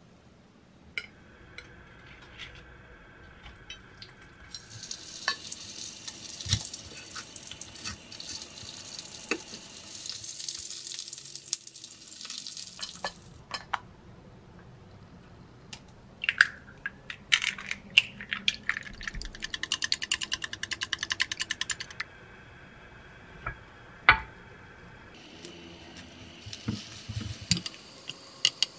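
Home-cooking sounds: a breaded pork cutlet sizzling in hot frying oil, a run of rapid crisp crackles about two-thirds of the way through, then beaten egg sizzling as it is poured into a rectangular rolled-omelette pan near the end, with a few sharp clicks of utensils.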